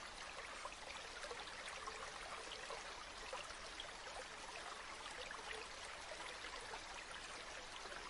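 River water flowing: a steady rushing babble with many small trickling splashes.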